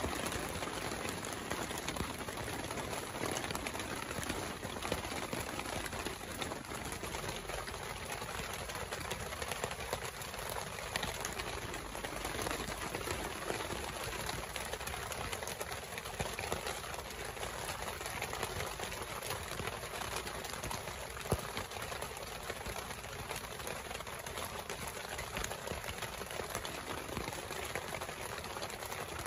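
Heavy rain pattering steadily on a tent and its rain tarp: a dense, even patter of drops, with a single louder click about two-thirds of the way through.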